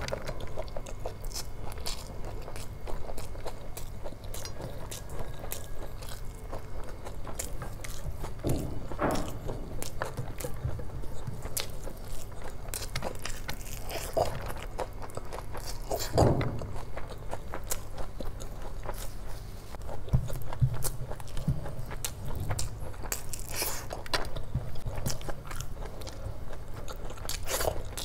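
Chewing of big mouthfuls of curry-soaked rice eaten by hand, with many short smacks and clicks of the mouth throughout.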